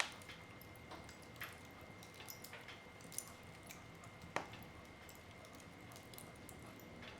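Wood fire crackling in a fireplace: scattered small pops and snaps from the burning logs at irregular times over a soft hiss, with a sharp pop right at the start and another about four seconds in.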